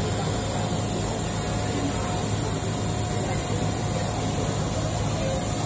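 Heavy rain falling steadily, an unbroken hiss, with a constant low hum and a thin high whine running under it.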